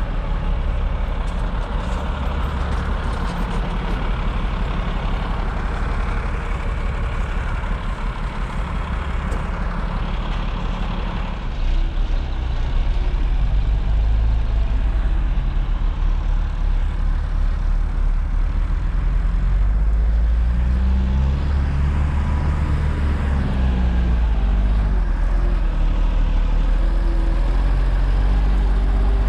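Heavy truck engine running, getting louder about twelve seconds in and revving up and down a few times about twenty seconds in.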